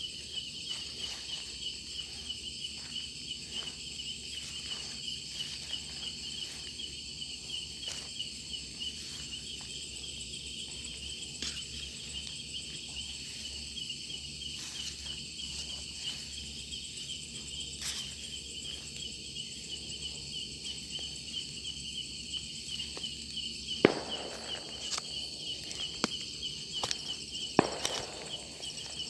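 Insect chorus: a steady, fast-pulsing cricket trill with fainter higher insect buzzing over it. Near the end come a few sharp snaps and rustles, like footsteps through vegetation.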